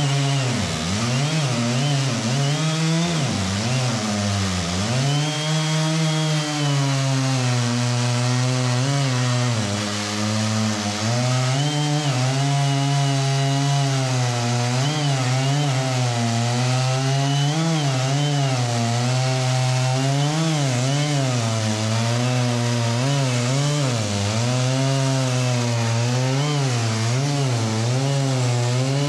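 Chainsaw cutting through a large sugar maple log. Its engine pitch dips and recovers several times in the first few seconds, then runs fairly steadily under load with small wavers.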